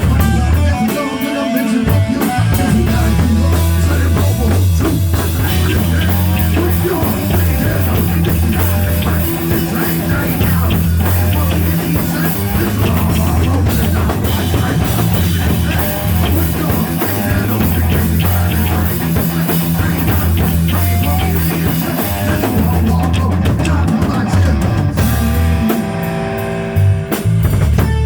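Live band playing loud rock-style music with drum kit, guitar and a heavy bass line, an instrumental stretch without rapping.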